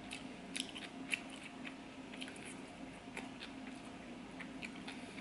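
Close-up mouth sounds of chewing sushi: soft wet clicks and smacks scattered irregularly, over a faint steady hum.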